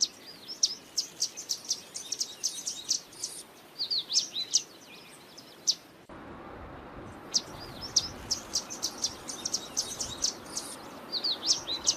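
Yellow warbler singing: runs of quick, high, sweet whistled notes, song after song, with a short pause about halfway through.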